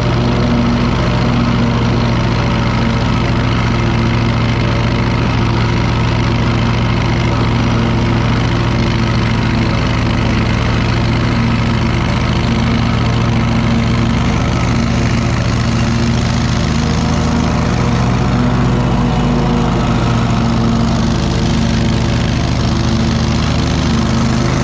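Engine of a Wright commercial mower running steadily at mowing speed, a constant low hum with only a slight wavering about three quarters through.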